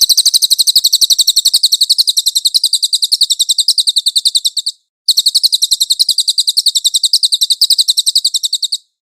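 A cililin bird singing two long, rapid, high-pitched trills of about a dozen even notes a second, with a brief pause between them about five seconds in.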